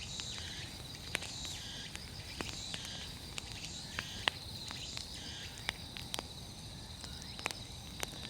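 Wood bonfire crackling, with irregular sharp pops and snaps, over a steady chirring of insects.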